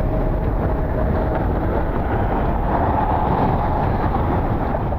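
Strong gusty wind buffeting the microphone: a loud, steady rumbling rush.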